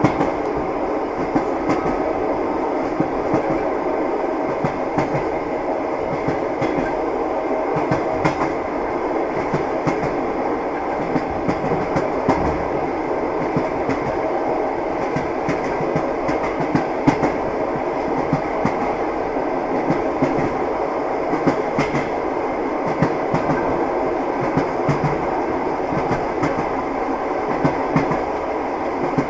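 A moving train's steady rumble, with the wheels clacking over the rails as scattered light clicks.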